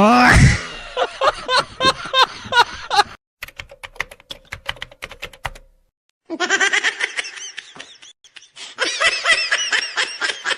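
Meme sound effects: high-pitched, squeaky cartoonish laughter over clicking, then a stretch of rapid keyboard-like typing clicks, a short gap, and more squeaky giggling.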